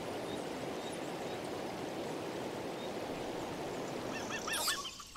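A steady, even rush like flowing or splashing water. Near the end it gives way to a bird calling in quick repeated chirps.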